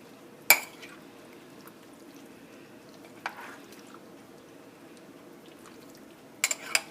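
Spoon clinking against a crock pot while stirring: one sharp clink about half a second in, a faint one midway, and a few quick clinks near the end, over faint steady background noise.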